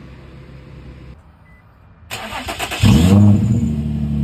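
Infiniti G35's 3.5-litre V6 with a straight-pipe exhaust (muffler and resonator deleted) being started: the starter cranks about two seconds in, the engine catches with a brief rev flare that rises and falls, then settles into a loud, steady idle.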